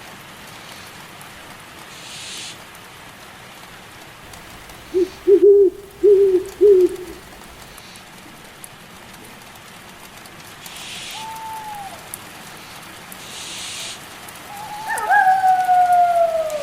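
Steady rain falling, with an owl hooting four times about five to seven seconds in. A short falling call comes near the middle, and a long falling howl, as of a wolf, starts near the end.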